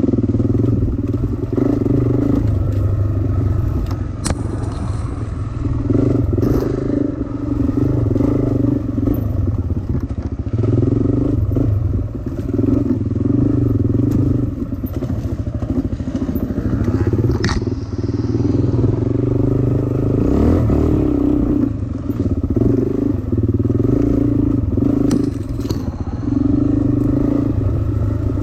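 Dirt bike engine revving and easing off again and again, the note rising and falling every couple of seconds as it is ridden around a track, with a few sharp clicks or knocks, the clearest about four seconds in and near the middle.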